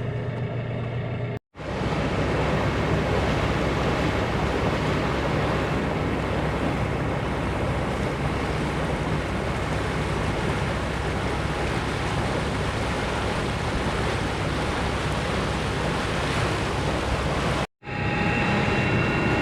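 Steady, even rushing noise, with no tones or rhythm, of a sailboat under way. The noise starts and stops abruptly with edits. A low steady engine hum is heard for about the first second and a half.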